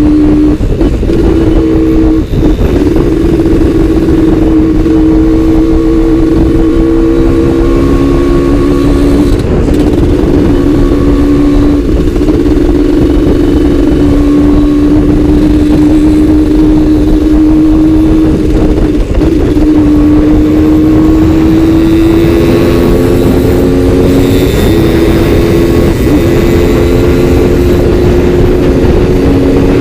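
Suzuki Satria two-stroke motorcycle engine running at steady, held revs while riding, its pitch drifting gently up and down, over a steady low rush of noise.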